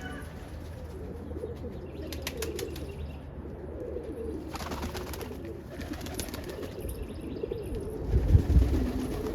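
Domestic pigeons cooing continuously in a low, warbling murmur, with a short flurry of wing flaps about halfway through. A low thump near the end is the loudest moment.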